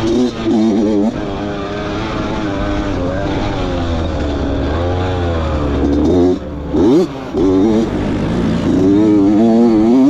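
Dirt bike engine being ridden, its pitch rising and falling repeatedly as the throttle is worked. There is a quick sharp rev about seven seconds in.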